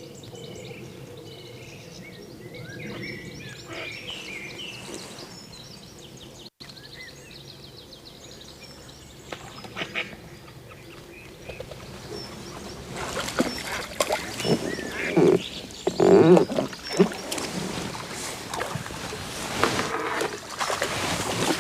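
Outdoor ambience with birds chirping in the first few seconds. Then, from about halfway through, loud irregular knocking and rustling close to the microphone, as of gear being handled.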